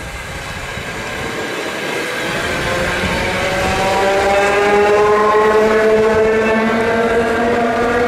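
Train running, growing louder as it nears, with a whine of several tones that slowly climbs in pitch over steady rumble and wheel noise.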